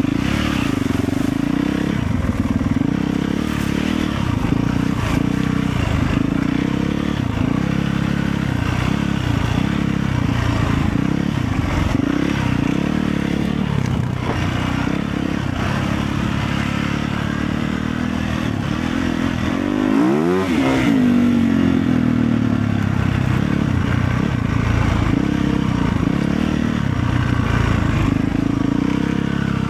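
Motorcycle engine running steadily under way. About two-thirds through, its pitch drops sharply and rises again.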